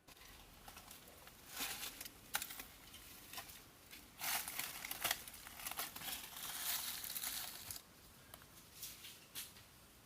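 Irregular rustling and crinkling with sharp crackles, in bursts, loudest from about four seconds in to nearly eight.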